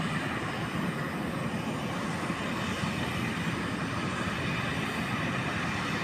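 Airplane engine noise, steady and even, without a clear pitch.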